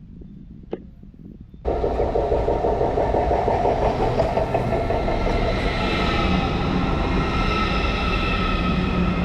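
A train running on rails: a steady loud rumble with a high whine of several steady tones above it, starting abruptly about a second and a half in after a single click.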